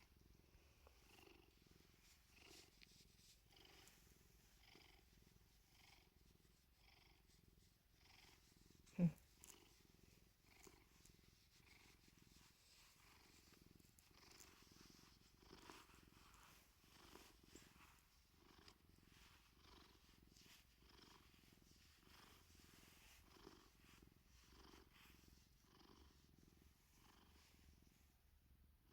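Domestic cat purring softly in a steady rhythm of breaths. About nine seconds in, one brief louder sound falls in pitch.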